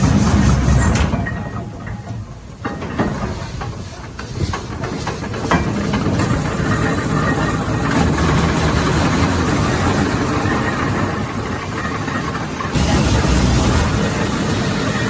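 Steam shovel working, its engine running with steam hissing. The sound changes abruptly several times.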